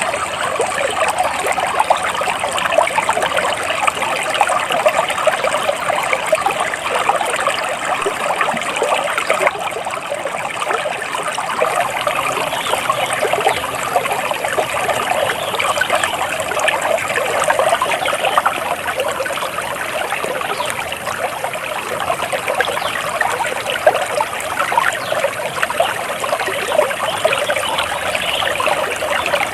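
Water flowing and trickling in a small stream, a steady babbling rush without pause.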